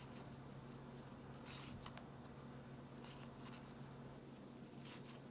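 Faint, brief swishes of trading cards sliding across one another as a pack is flipped through card by card, about three of them, over a low steady hum.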